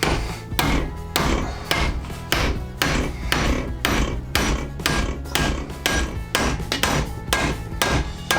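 A hammer striking in a steady, even rhythm, about two blows a second.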